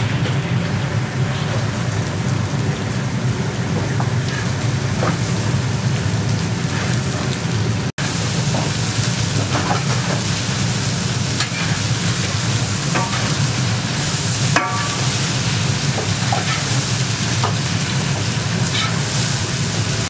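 Julienned carrots frying in hot oil and meat in a large kazan, a steady loud sizzle over a low rumble of the fire beneath: the zirvak stage of pilaf. The metal skimmer scrapes and clinks against the pot a few times as the carrots are stirred.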